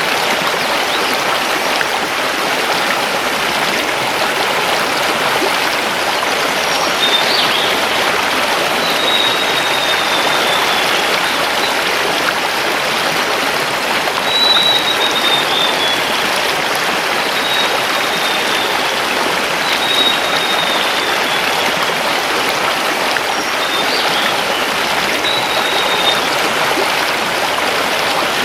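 River water rushing steadily over stones. Over it, a bird gives a series of high, thin, slightly falling call notes, repeated several times from about a quarter of the way in until near the end.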